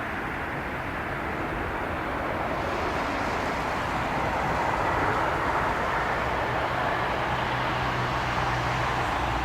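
Boeing 777-300ER's GE90-115B turbofan engines on landing: a steady jet rush that grows a little louder a few seconds in, with a low steady hum in the second half.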